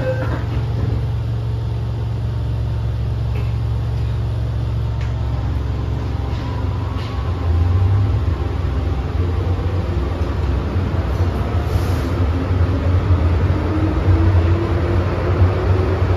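An MTR M-train electric multiple unit running, heard on board: a steady low rumble of wheels and motors. About halfway through the rumble gets louder and a whine starts to rise steadily in pitch as the train picks up speed.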